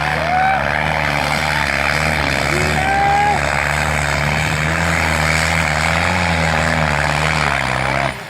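New Holland tractor's diesel engine running steadily under load, with a few short higher gliding tones over it. The engine sound drops off just before the end.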